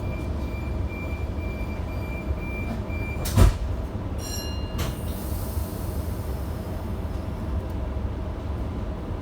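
Inside a passenger train carriage: a steady low rumble under a run of rapid high beeps that stop about three seconds in, followed at once by a single loud thud. Then a brief chord of tones and a steady hiss.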